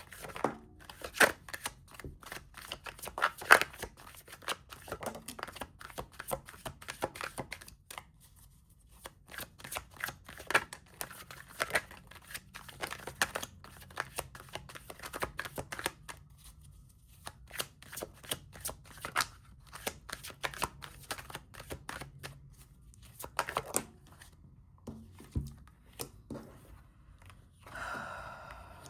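Tarot cards being shuffled by hand: irregular runs of quick flicks and slaps of card on card, with short pauses between the runs.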